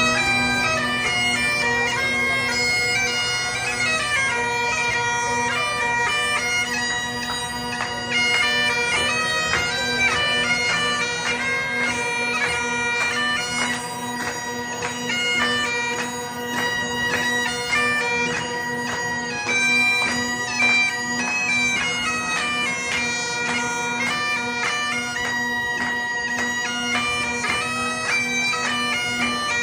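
Scottish Highland bagpipes playing a tune: a steady drone held underneath while the chanter melody steps quickly from note to note.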